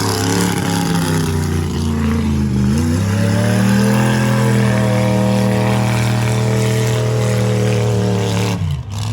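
Truck engine revving hard and held at high revs; the pitch sags about two and a half seconds in, climbs back and holds steady, then drops away sharply near the end.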